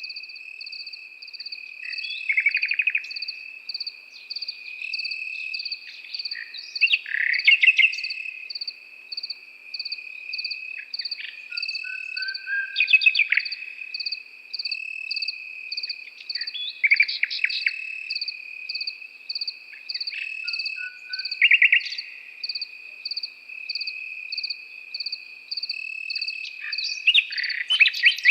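A nightingale sings in phrases of rapid repeated notes and whistles every few seconds. Under it runs a steady chorus of crickets, evenly pulsing chirps over a continuous high trill.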